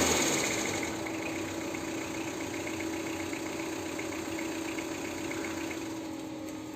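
Tata Indica diesel engine settling back from a rev to a steady idle, with a light rhythmic ticking over the running.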